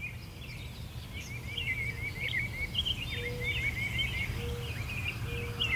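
Small birds chirping in quick repeated series of short, high notes, over a steady low background rumble.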